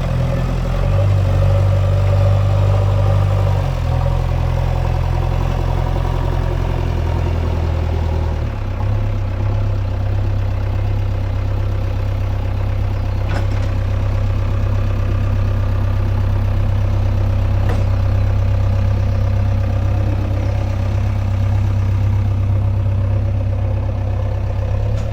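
A heavy diesel engine running steadily, its note dropping and settling about eight seconds in. Two brief sharp clicks come in the middle.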